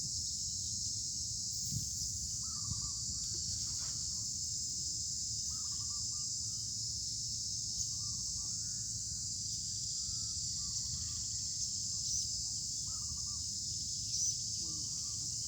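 Steady high-pitched drone of insects, with a bird giving short calls every second or two over a low rumble of wind.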